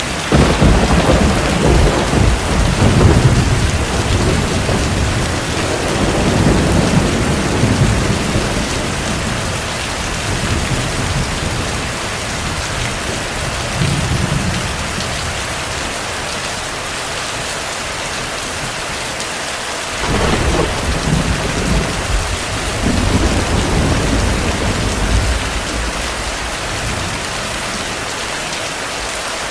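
Heavy rain falling steadily, with rolling thunder: one long rumble breaks out at the start and rolls on for about eight seconds, a smaller swell follows, and a second rumble breaks out about twenty seconds in and rolls for about six seconds.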